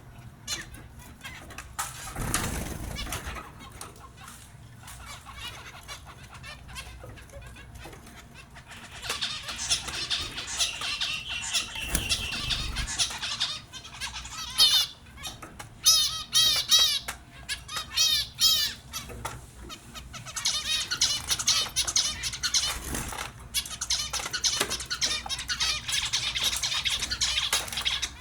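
Small pet finches chirping and chattering in quick high-pitched calls. The calls come in busy spells: quiet for the first third, then a burst of chatter, then a run of short repeated call notes, then chatter again.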